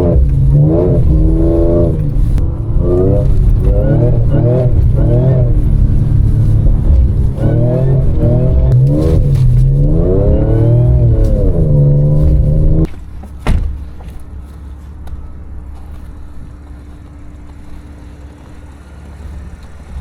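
Supercharged V6 of a tuned Audi S5 with its resonator deleted, revved again and again, each rev rising and falling in pitch. About thirteen seconds in it drops suddenly to a much quieter steady low rumble, with a single sharp click just after.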